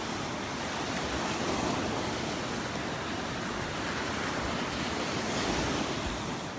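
Surf washing up onto a sand beach: a steady rushing wash of small waves at the water's edge.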